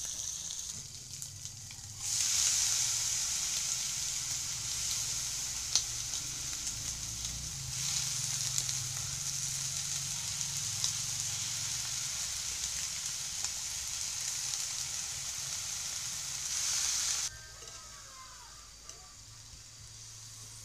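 Shredded cabbage sizzling and frying in a hot wok over a gas burner, with a few small clicks. The sizzle is fainter for the first two seconds, loud until about three-quarters through, then drops suddenly to a faint sizzle.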